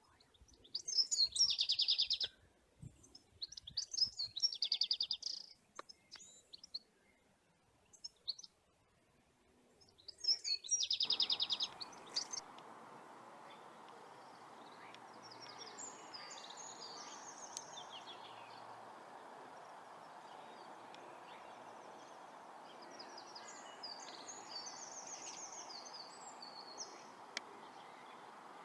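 Birds chirping: three loud bouts of high calls in the first twelve seconds, then steady background noise from about eleven seconds in, with fainter bird twittering over it.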